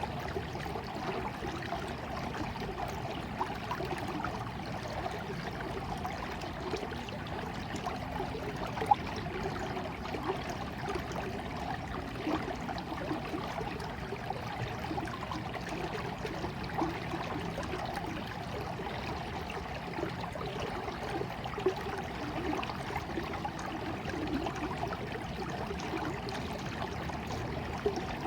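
A stream of water flowing and trickling steadily, with a dense patter of small splashes and a couple of louder drips.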